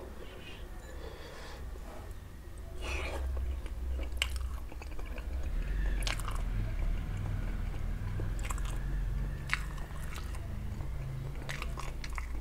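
A man biting into and chewing a sausage, with a sharp mouth click every second or two.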